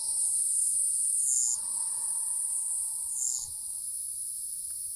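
Insects trilling in a steady high-pitched drone, with a short, slightly lower chirp about every two seconds.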